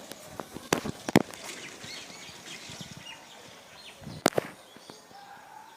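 Faint outdoor birdsong, short high chirps in the first half, with three sharp clicks standing out above it, about a second in, shortly after, and near the end.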